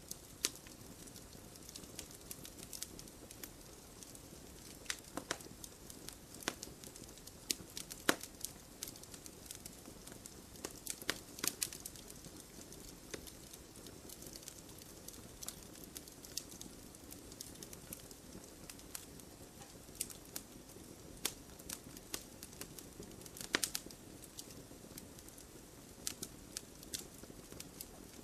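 Wood campfire crackling: irregular sharp pops and snaps, a few of them louder, over a steady low sound of burning.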